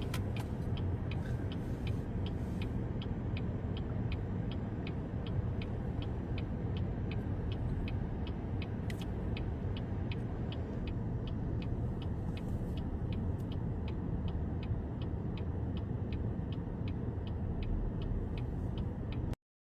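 Steady low vehicle rumble with an even ticking about three times a second over it; it cuts off abruptly near the end.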